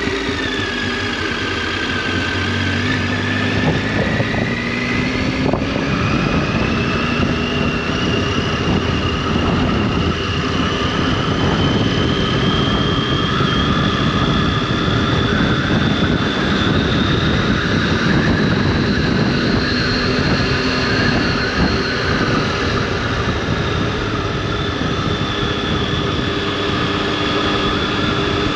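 Triumph Tiger 800's three-cylinder engine and exhaust running under way, its note rising slowly and steadily for most of the stretch as the bike gains revs, then settling, over road and wind noise.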